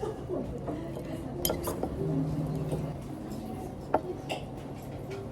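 Dishes and cutlery clinking, with a few sharp clinks of tableware standing out over a steady background hum.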